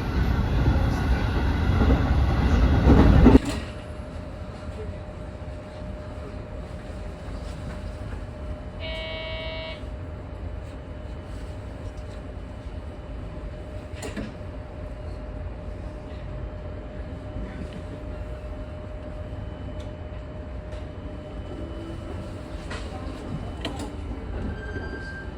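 Train noise, loud for about the first three seconds, then dropping suddenly to a quieter steady rumble. A brief pitched tone sounds about nine seconds in.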